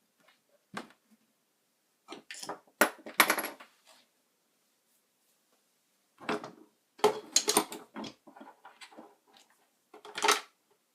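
Small hard objects clattering and knocking as they are handled, in several bursts of quick clicks.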